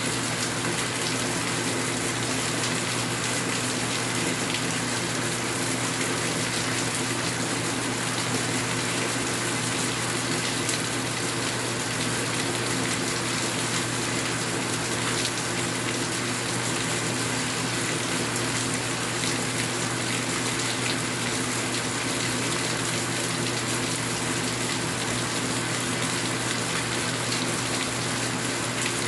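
Steady rain falling: an even, unbroken hiss that never rises or falls.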